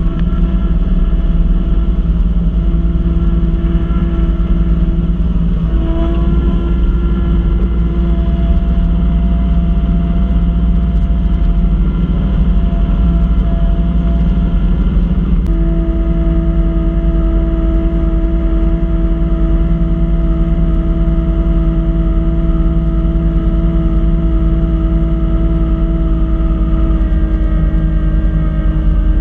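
Kubota B2650 tractor's three-cylinder diesel running steadily under load, driving a front-mount snow blower, with a steady mechanical whine over the engine that shifts in pitch about six seconds in and again about halfway through.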